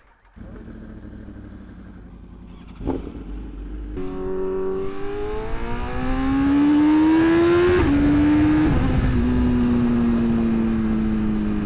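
BMW S1000RR's inline-four engine pulling away. A clunk comes about three seconds in, then the revs climb. Two quick upshifts follow a couple of seconds apart, each dropping the pitch, and the bike then settles into a steady cruise, the engine note easing down under rising wind rush.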